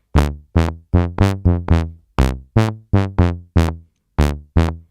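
Dave Smith Instruments Tempest analog synth playing a run of short, plucky pitched notes, about three a second, at changing pitches. Each note starts bright and dies away, shaped by a low-pass filter envelope whose amount follows how hard the pad is hit.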